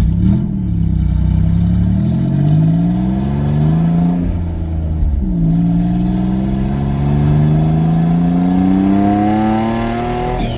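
Twin-turbocharged Ford Mustang V6 accelerating hard under boost. Engine revs climb through one gear, drop at a shift about four to five seconds in, then climb steadily through the next gear until a drop in revs at the very end.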